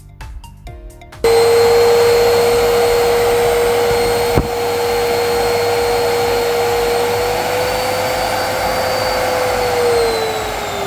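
Miele vacuum cleaner motor switched on about a second in, running loud and steady with a high whine: the repaired vacuum working properly with strong suction. There is one sharp click about four seconds in, and the pitch sags slightly near the end.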